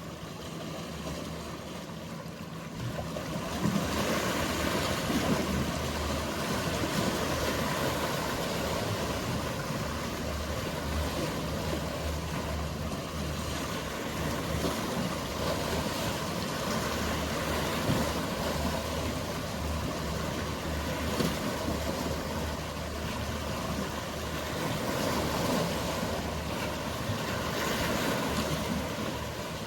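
Sea ambience: waves washing against the shore, with the steady low hum of a boat engine. The water and engine sound grow louder about three and a half seconds in and then hold steady.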